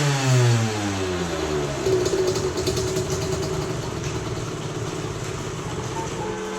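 Derbi Senda 50's 50 cc two-stroke single-cylinder engine, its revs falling back over the first couple of seconds after a blip of the throttle, then running steadily at idle.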